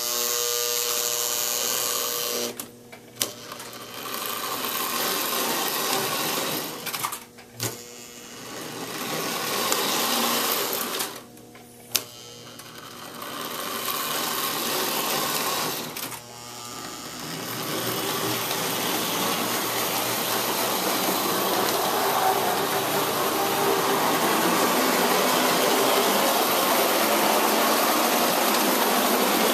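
Electric Hornby tinplate model locomotive running, its small motor and gears whirring. The sound cuts out briefly about four times in the first sixteen seconds, then runs on steadily and a little louder.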